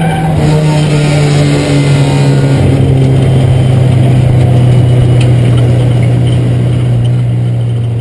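Four-cylinder engine of a Ford Escort race car, heard loud from inside its stripped cabin. The revs drop in steps over the first two to three seconds, then hold steady, over road and wind noise.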